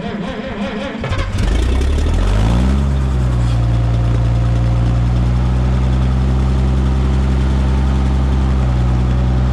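Minneapolis Moline G900 LP tractor's six-cylinder LP engine being cranked by the starter. It catches about a second in, its revs rise, then it settles into steady running.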